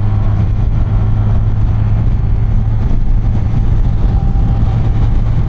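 BMW R1250RT motorcycle's boxer-twin engine running at a steady cruise, a constant low drone mixed with wind and road noise.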